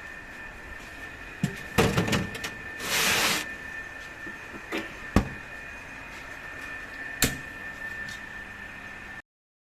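Workshop machinery with a steady high-pitched whine, metal knocks and clanks, a short hiss about three seconds in, and single sharp knocks later; the sound cuts off abruptly shortly before the end.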